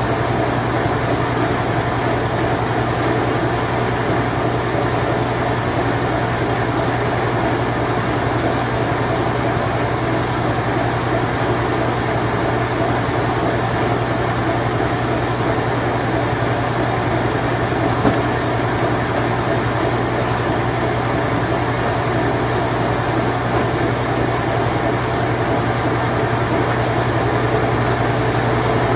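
Circa-1990 Whirlpool Imperial Clean Touch washing machine running its spin cycle: a steady motor hum under an even whir, with one small tick partway through.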